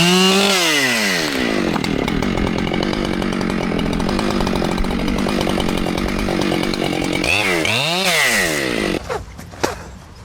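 Two-stroke chainsaw cutting under load, making a felling back cut, with its pitch rising and falling as it is revved at the start and again near the end. It stops about nine seconds in, leaving a few sharp knocks.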